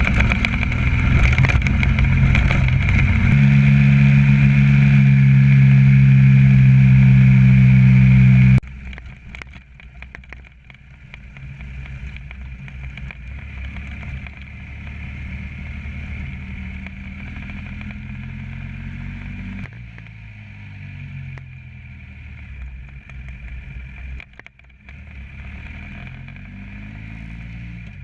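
Motorcycle engine running while riding, loud and steady at first, then cutting abruptly to a quieter engine sound about eight seconds in, whose pitch rises and falls as the rider speeds up and eases off.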